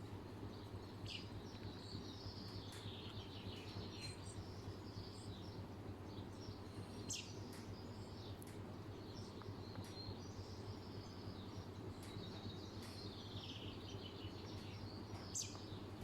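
Birds chirping in short scattered calls over a steady low hum, with a few sharp clicks.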